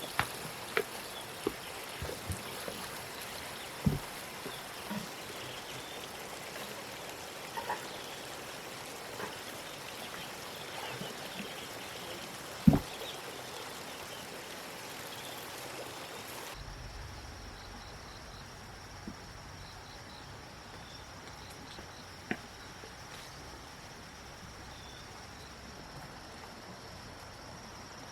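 Steady outdoor background hiss with scattered small knocks and clicks, the loudest about halfway through. About sixteen seconds in the sound changes abruptly: the upper hiss drops away and a low rumble remains.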